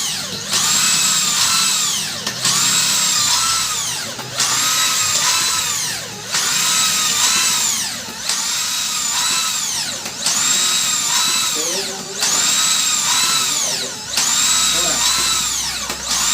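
Maktec 13 mm electric drill driving a PCP air-rifle hand pump through a homemade crank mechanism. Its whine runs continuously, dipping in pitch and recovering about every two seconds as each pump stroke loads the motor.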